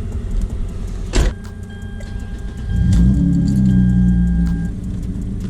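Car engine idling. A door shuts with a sharp knock about a second in. From just under three seconds the engine note grows louder for about two seconds, with a steady electronic chime tone sounding over it.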